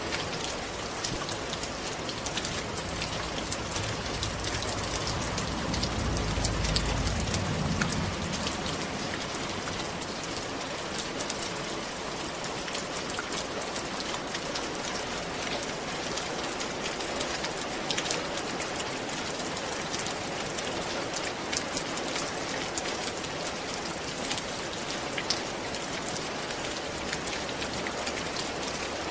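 Steady rain falling on a roof: a dense, even hiss dotted with many separate drop ticks. A low rumble swells briefly about six seconds in.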